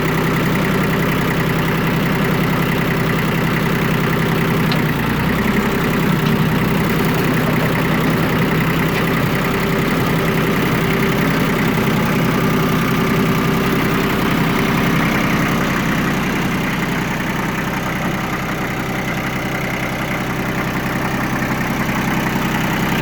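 Yanmar F165D compact tractor's diesel engine running steadily, with a slight change in its note about five seconds in.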